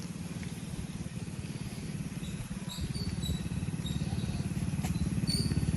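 A small vehicle engine running with a fast, even pulse, getting steadily louder as it draws near. A few faint, short high chirps sound in the background.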